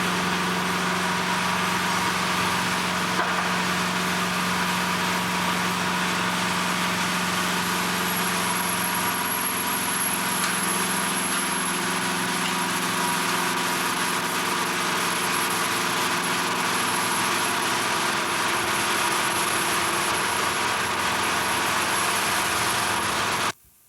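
A steady engine or machinery drone with a constant low hum, holding an even level throughout, then cutting off abruptly near the end.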